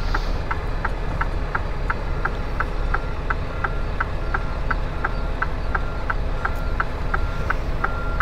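A semi truck's reverse warning beeper beeping evenly at one pitch, about three beeps a second, over the steady low rumble of the truck's idling diesel engine while it backs up.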